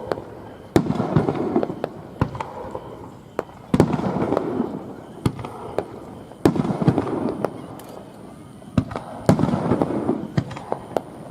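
Aerial fireworks shells bursting one after another, with a sharp bang every second or so. The larger bursts are each followed by a second or more of dense crackling.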